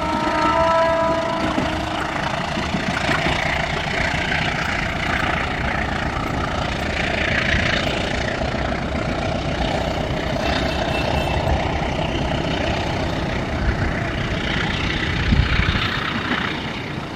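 A diesel-electric locomotive's multi-tone horn cuts off about a second in, followed by a steady rumble of engine noise as the train runs past the level crossing.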